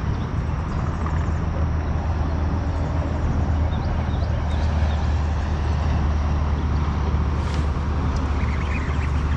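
A steady low engine-like drone with a hum of outdoor noise, and a few faint high chirps near the end.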